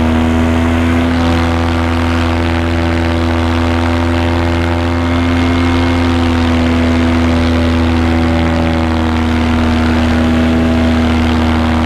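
Paramotor engine and propeller running steadily in flight: a loud, even drone that holds one pitch, heard from the pilot's position.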